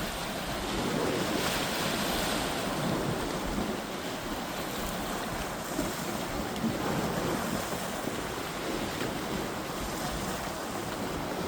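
Sea waves washing against shore rocks in a steady rush of surf, swelling a little around the second second, with wind buffeting the microphone.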